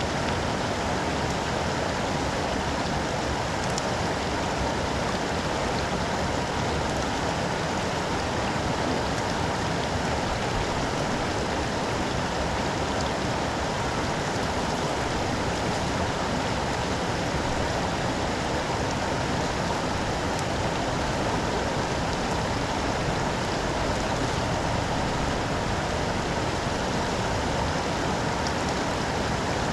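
Steady rush of running storm water, an even noise that does not change.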